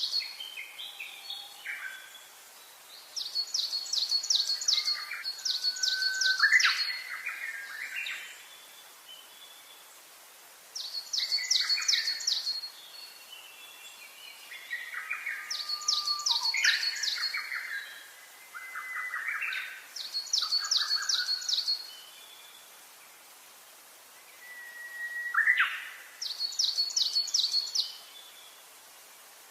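Songbirds singing: a rapid run of high, evenly repeated notes comes back every few seconds, with lower, varied chirps and whistles in between.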